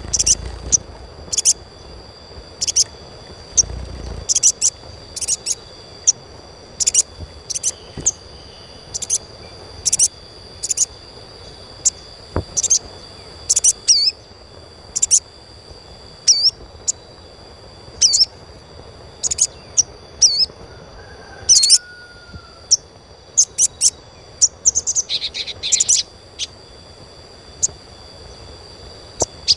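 Little spiderhunter (sogon) giving short, sharp, high chirps, repeated about once or twice a second. Some end in a quick downward flick, and there is a brief quick flurry near the end.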